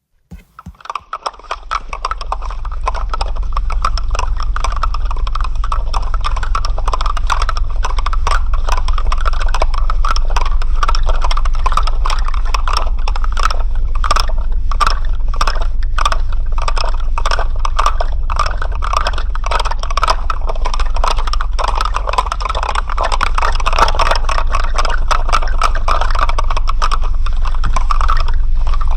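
Dense, continuous rattling made of rapid, irregular clicks, building up over the first two seconds and then running on steadily, over a steady low hum.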